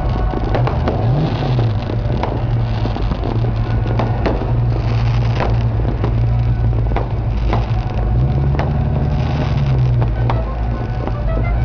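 Dodge Charger engines running in a slow-moving parade, revved up and back down about a second in and held higher for a couple of seconds around eight seconds in, with sharp cracks of fireworks bursting overhead.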